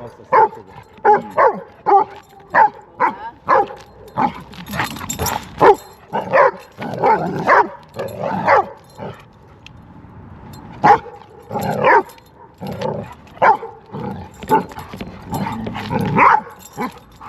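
Dogs barking in quick repeated barks, often two a second, with a short lull a little past halfway before the barking starts again, during rough play or a scuffle between a giant schnauzer and a puppy.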